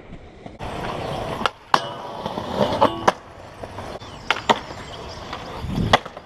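Skateboard rolling over concrete, with several sharp clacks of the board and wheels hitting the ground.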